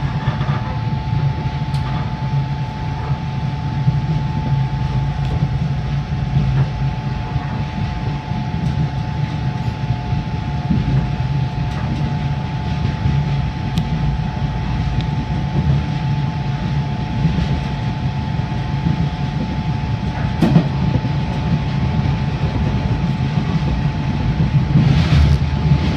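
JR East 583 series electric train running along the line, heard from inside the lead car: a steady low rumble with a constant whine, and now and then a click of the wheels over a rail joint. A louder rush comes near the end.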